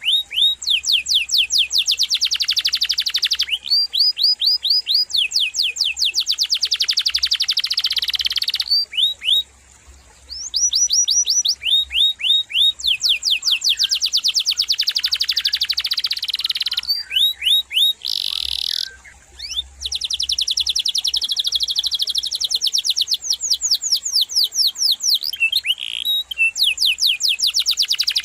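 Domestic canary in full song, singing long rolling trills: fast runs of repeated high notes, phrase after phrase. It pauses briefly about ten seconds in and again near the nineteenth second, just after one held whistled note.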